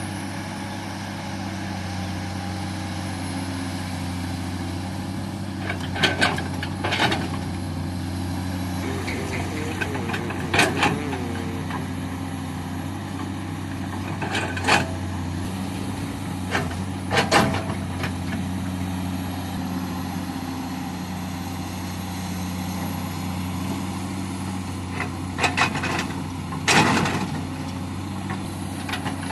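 BharatBenz truck's diesel engine running steadily, with several short, loud, sharp noises breaking in over it.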